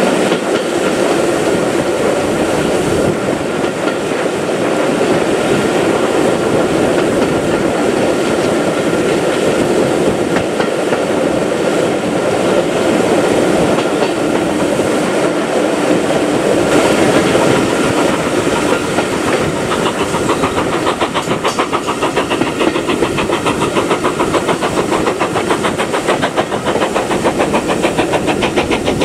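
Steam-hauled train running along the line, wheels clattering over the rails in a steady rumble. About two-thirds of the way through, a fast even beat of about four to five strokes a second comes in.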